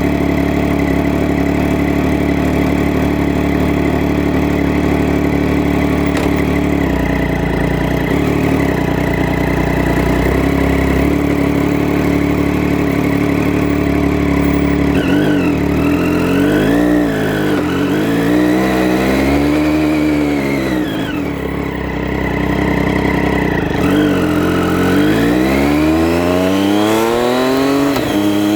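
Triumph Street Triple R's 675 cc inline-three engine running at a steady speed, then its revs rising and falling several times. Near the end it pulls hard, the pitch climbing steadily as it accelerates.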